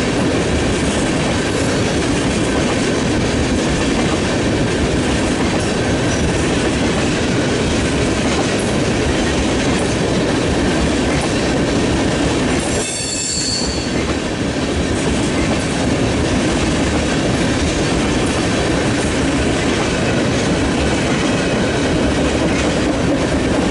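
Empty railroad tank cars of a CSX freight train rolling past, wheels clacking steadily over the rail joints, with a brief lull about halfway through.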